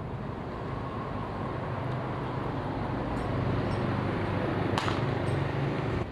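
Parsun 3.6 HP outboard motor running, getting louder through the middle and easing off near the end, with one sharp click about five seconds in.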